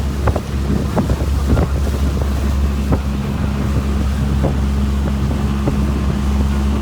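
Motorboat engine running steadily under way at cruising speed, with wind buffeting the microphone and irregular knocks of the hull slapping the waves about once a second.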